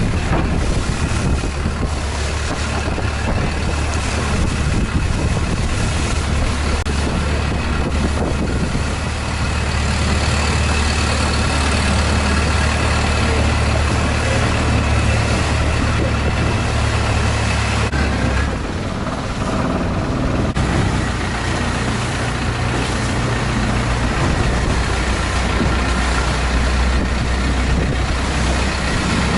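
Long-tail boat's inboard engine running steadily under way, a loud low drone over a rushing wash of wind and water. About two-thirds of the way through, the engine note briefly drops and shifts, then settles again.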